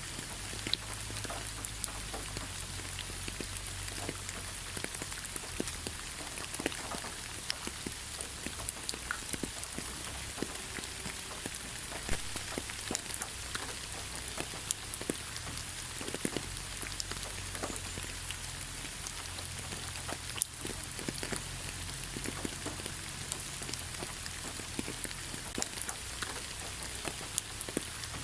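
Steady rain falling, an even hiss with many separate drops pattering and tapping close by.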